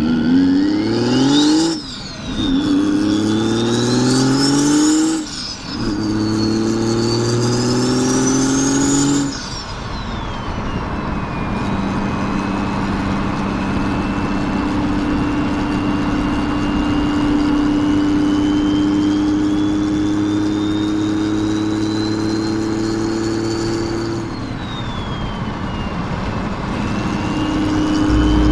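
BMW 330d straight-six turbodiesel with a straight-piped exhaust, accelerating hard through the gears. Its note climbs three times, broken by two quick gear changes, while a high turbo whine rises and falls with each pull. After that it runs at a steadier, slowly rising speed with the turbo whistle climbing, then drops back near the end as the throttle eases.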